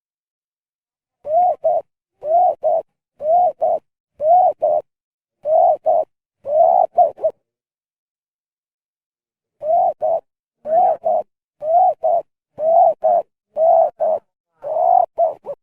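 Spotted dove (derkuku) cooing in short two- or three-note phrases, about one a second, in two runs of six with a pause of about two seconds between them. The owner finds the call gone wrong and wonders whether something the bird ate is the cause.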